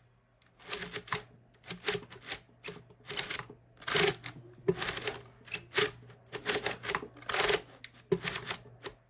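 An irregular series of short mechanical clacks and rattles, about a dozen over several seconds, over a faint steady low hum.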